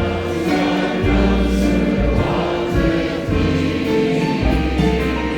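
Gospel music: a choir sings held chords over a bass line that changes note about once a second.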